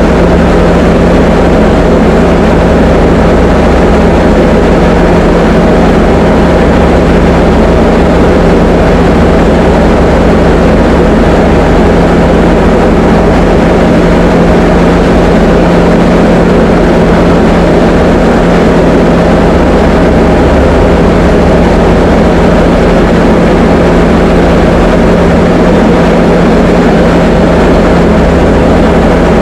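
Diamond DA20 light aircraft's piston engine and propeller running at a steady power setting, a loud constant drone with a strong low hum.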